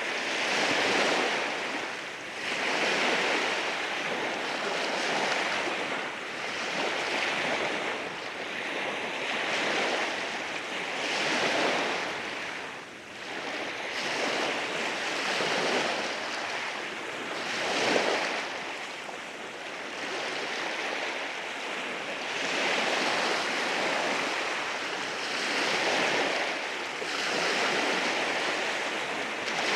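Waves washing in over rocks on a beach, a continuous hiss of surf that swells and ebbs every couple of seconds, with one sharper crash about eighteen seconds in.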